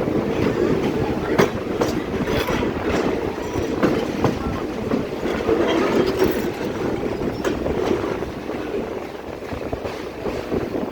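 Passenger train running along the line, heard from on board: a steady rumble with scattered clicks of the wheels over the rail joints.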